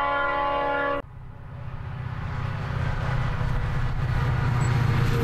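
A train horn sounding a chord of several notes that cuts off suddenly about a second in, followed by the low rumble of a train that grows steadily louder.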